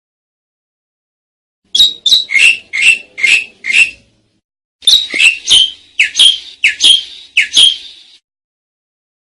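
Asian pied starling (jalak suren) calling: starting about two seconds in, two runs of short, harsh chattering notes, about six in each, with a brief pause between them.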